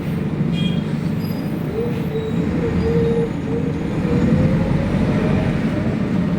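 City bus engine and drivetrain running as the bus travels: a steady low rumble, with a whine that starts about two seconds in and slowly rises in pitch.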